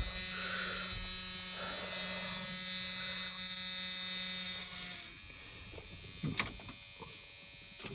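Steady electrical buzzing from a 1994 Dodge truck with the key turned to on, before starting; it cuts off about five seconds in, followed by a few light clicks.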